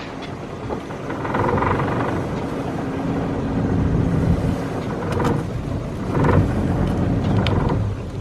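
Small sailboat's engine running under throttle while motoring into a slip, with its pitch and level swelling at times.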